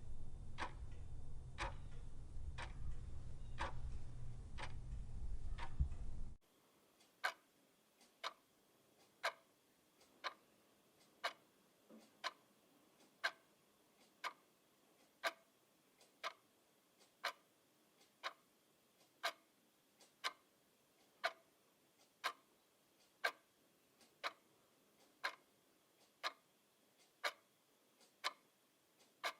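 Clock ticking. For the first six seconds the ticks come a little faster than one a second over a low hum. Then the sound switches to a cleaner, quieter tick, about once a second.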